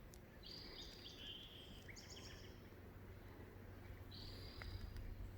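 A songbird singing in a quiet forest: short, clear, high whistled notes, a run of several from about half a second in and another phrase about four seconds in, over faint steady background hiss.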